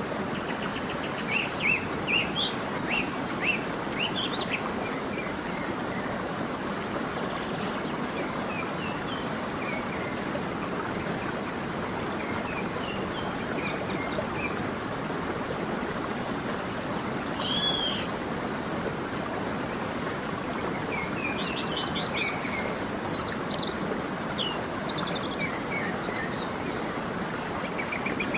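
Steady rushing of a flowing stream with birds singing over it in short chirps and trills, a loud clear two-note call about two thirds of the way through.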